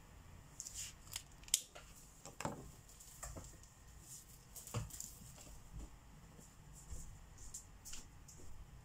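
Markers being handled and used while colouring: faint, scattered light clicks and taps at an irregular pace.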